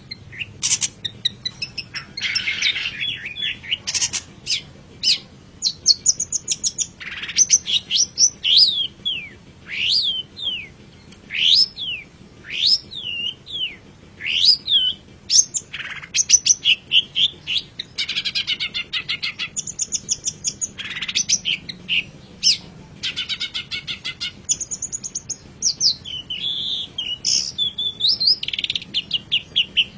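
Long-tailed shrike (cendet) singing a long, varied song. It strings together sharp whistled slurs that fall and rise, quick runs of repeated chirps, and harsh, scratchy chattering phrases.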